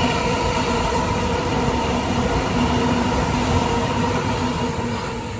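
Sydney Trains Waratah A-set electric train moving through the station: a steady hum with a few held tones over rolling wheel noise, loud and easing off near the end.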